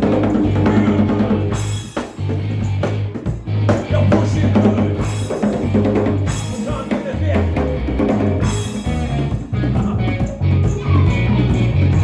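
A live band playing: drum kit with bass drum and snare hits, bass line and guitar, with no singing.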